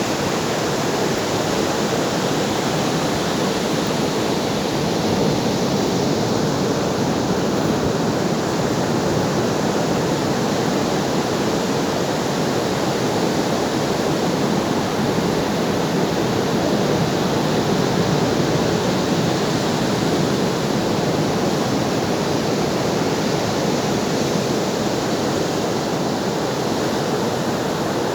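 Ocean waves breaking as a steady, continuous wash of surf with slight swells in loudness.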